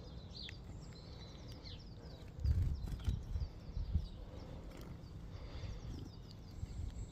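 Small birds chirping, with many short high calls scattered throughout, and a few low rumbles about two and a half and four seconds in.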